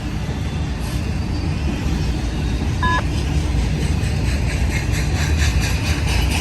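Freight train running past with a steady low rumble, and from about three seconds in a rhythmic clatter of wheels, a few strokes a second. A brief two-tone electronic beep sounds about three seconds in.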